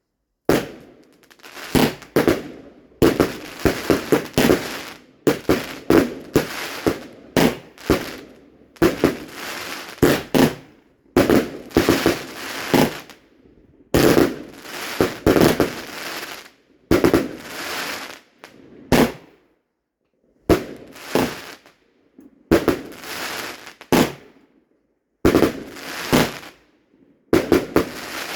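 Fireworks going off: a rapid series of sharp bangs and crackling bursts, coming in clusters with short gaps between them.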